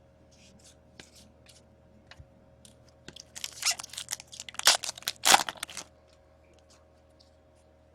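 Foil hockey card pack being torn open and its wrapper crinkled: a crackling flurry from about three to six seconds in, loudest twice near the end of it, after a few light clicks of cards being handled.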